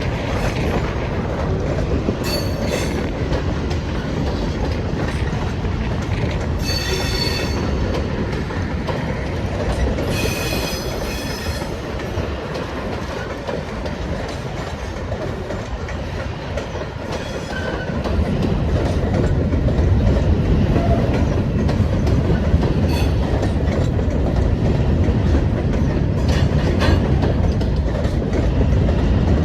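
Railroad cars rolling past with a steady rumble and clickety-clack of wheels over the rail joints. High-pitched wheel squeals ring out briefly about 7 s and again about 10 s in, and the rumble grows louder after about 18 s.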